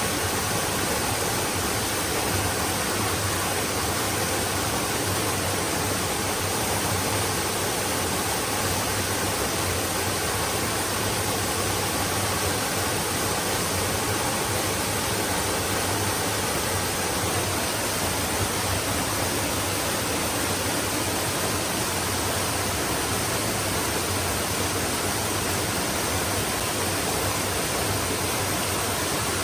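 Flowing stream running steadily: an even rush of water with no separate splashes or changes.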